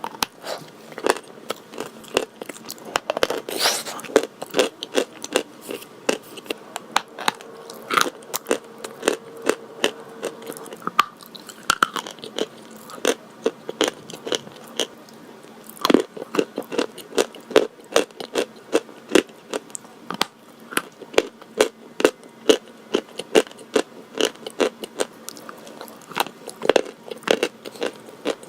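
Close-miked biting and chewing of crunchy white chalk: sharp, irregular crunches, several a second.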